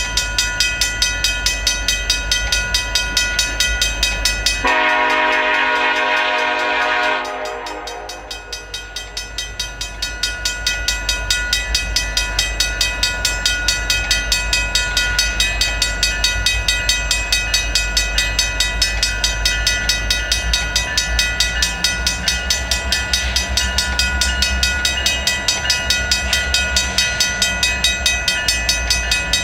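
CN diesel locomotive approaching: one horn blast of about three seconds, some five seconds in, over the low rumble of the train, which grows stronger as it nears. A crossing bell rings fast and steadily throughout.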